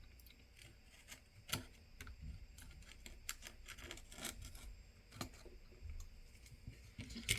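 Hand scraper scraping leftover adhesive and broken glass off the edge of a phone's plastic frame, in short irregular scrapes and ticks.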